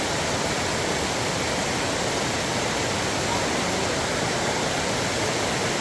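Steady rushing of water, an even hiss with no separate splashes or knocks.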